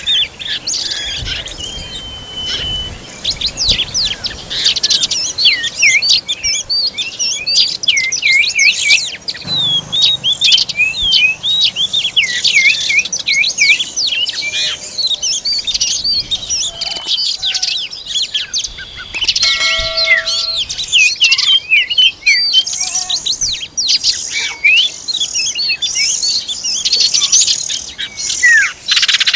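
Oriental magpie-robins chirping and calling in a continuous stream of quick rising and falling notes.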